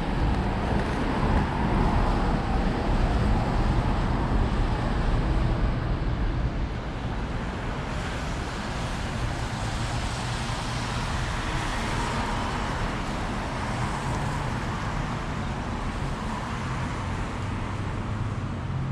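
Road traffic on a wet street in heavy rain: passing cars with a steady low rumble and a hiss of rain and wet road. It is louder for the first six seconds, then steadier with another swell about twelve seconds in.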